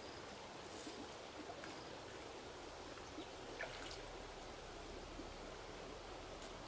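Faint, steady trickle of running water, with a few soft clicks scattered through it.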